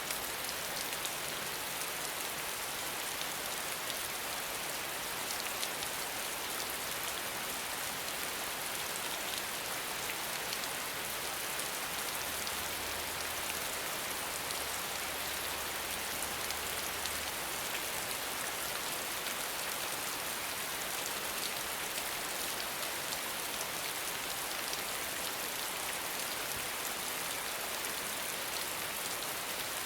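Steady rain falling, an even hiss with the fine patter of individual drops, at a constant level.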